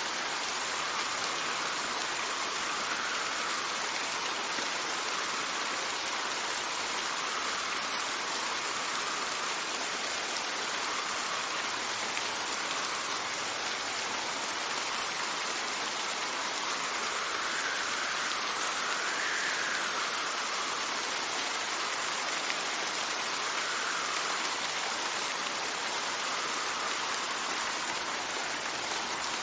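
Steady rain hissing, with wind swelling and fading in gusts every few seconds, the strongest near the two-thirds mark.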